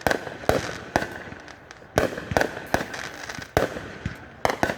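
Fireworks exploding in quick, irregular succession: about nine sharp bangs, each followed by a brief echo, with two coming close together near the end.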